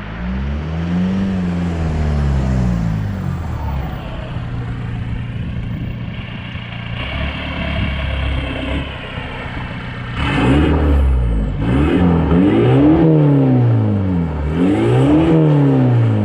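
Audi 2.0 TDI four-cylinder diesel (BPW, 8-valve) with a straight-piped exhaust, revving: one rise and fall in the first few seconds, steadier running in the middle, then three quick rises and falls in a row near the end.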